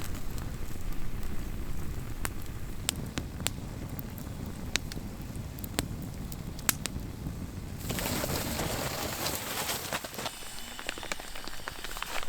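Campfire crackling, with scattered sharp pops over a low rumble; about eight seconds in, the sound changes to a steadier hiss.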